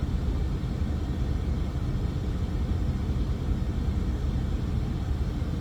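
Steady low engine rumble heard inside a parked semi-truck's cab, with no change in pitch or level.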